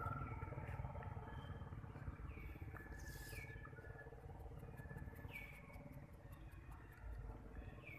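A bird giving short high calls that slide quickly downward, three times about two seconds apart, over a faint steady outdoor background.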